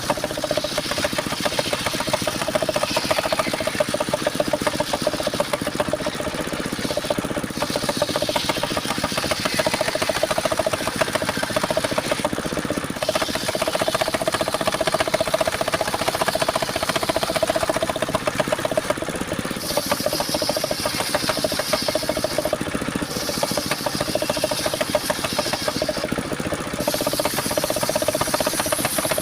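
Engine of a homemade mobile circular-saw sawmill running steadily with a rapid, even chugging, while a higher hiss comes and goes several times as the saw blade cuts through mahogany.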